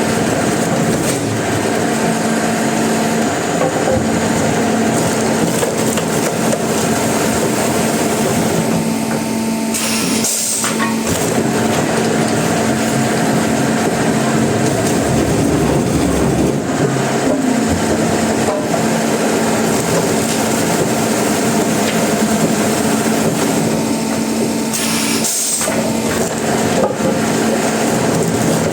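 Sawmill saw running and cutting through timber: a loud, steady mechanical din with a constant hum, broken briefly twice.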